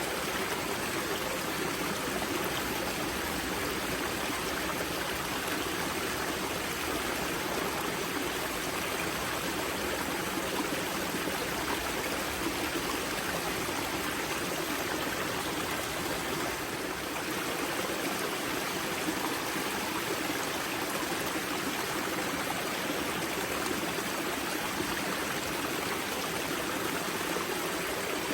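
Spring-fed river water rushing and splashing over rocks at its source, a steady even rush with no breaks.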